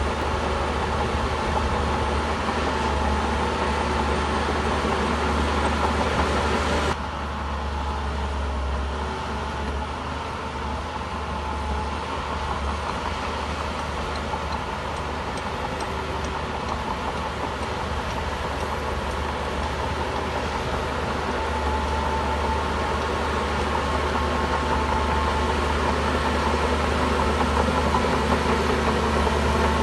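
Bulldozer's diesel engine running steadily, with a deep low hum. About seven seconds in, the sound suddenly drops in loudness and loses some of its hiss.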